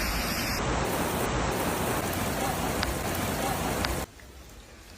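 Loud steady rush of water with no distinct events, cutting off abruptly about four seconds in and leaving a much fainter hiss.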